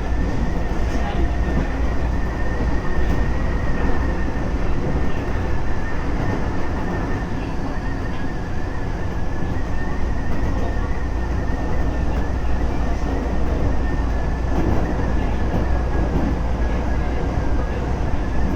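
Running noise of a Keisei 3400 series electric train heard from inside the car: a steady low rumble of wheels on rail, with a thin, steady high whine from the chopper control.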